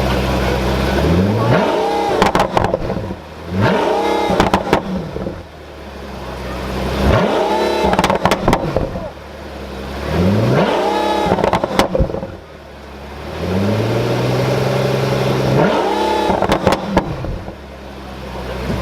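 Pagani Huayra's twin-turbo V12 blipped from idle five times, each rev rising and falling back, with a burst of exhaust pops and crackles on each lift-off. It settles back to a steady idle between blips.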